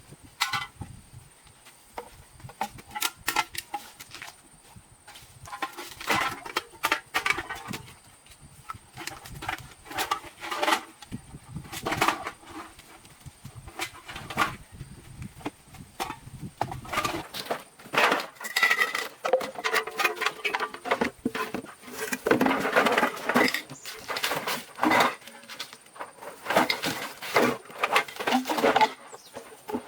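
Irregular clattering and knocking: many short, sharp hits of objects being handled, coming thicker and louder in the second half.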